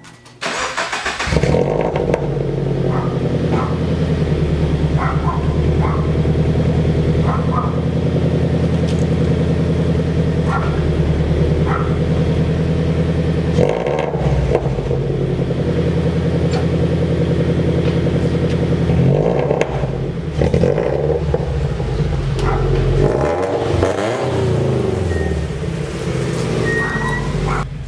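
FA20 flat-four boxer engine of a Subaru BRZ-type coupe breathing through Tomei unequal-length headers, catching about a second in and then idling with a steady, even exhaust note. In the second half the note rises and falls a few times as the car moves off.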